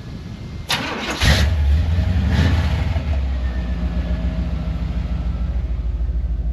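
1978 Chevrolet C10's engine cold-started through its newly installed budget exhaust kit with turn-down tips. The starter cranks briefly and the engine catches about a second in, rises once, then settles into a steady, deep idle.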